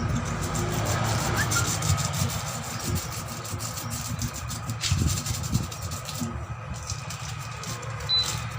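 Rapid scraping strokes on rubber, roughening the tyre or tube surface to prepare it for a patch. The strokes thin out about six seconds in, over a steady low rumble.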